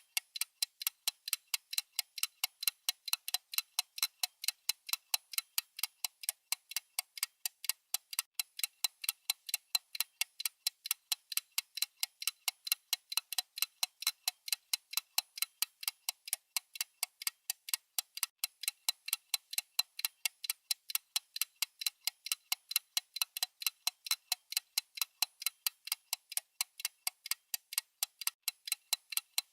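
Clock-style ticking sound effect: crisp, evenly spaced ticks, a few a second, keeping a steady beat without pause.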